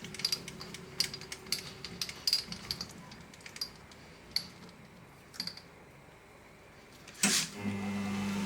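Light metallic clicks and taps of tools being handled during a tool change. Near the end a machine tool's motor switches on with a sudden loud onset and settles into a steady hum.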